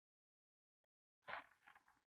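Near silence, then about a second in a short, faint mouth noise from eating or drinking, lasting under a second.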